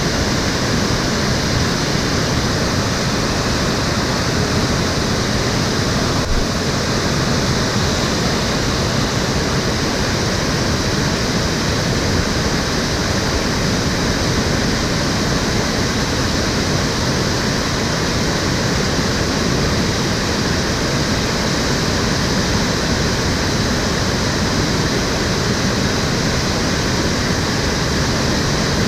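Stream water flowing and rushing, a steady even sound.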